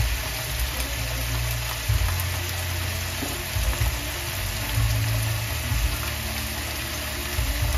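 Blue crabs and aromatics sizzling steadily in a covered pan.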